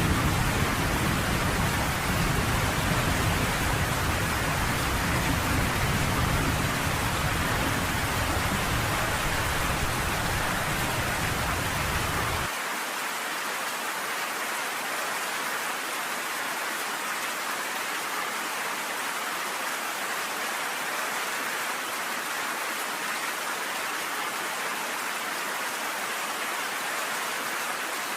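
Steady rain hiss with a low rumble of thunder underneath; the rumble cuts off suddenly about halfway through, leaving only the even hiss of the rain.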